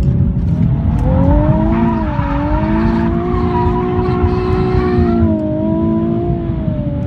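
Car engine heard from inside the cabin while driving, its pitch rising and falling several times with the throttle, over a heavy low rumble of road and wind noise.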